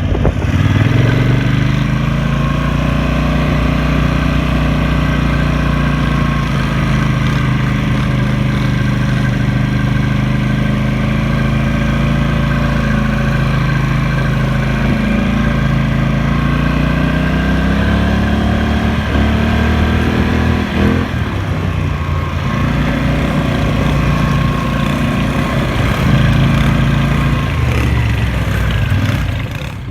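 Small off-road engine running under way, its pitch rising and falling several times as the throttle opens and closes, with a couple of sharp knocks about two-thirds of the way through.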